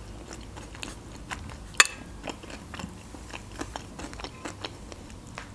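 A person chewing a mouthful of Olivier salad: soft wet mouth sounds and small crunches, with one sharp click about two seconds in.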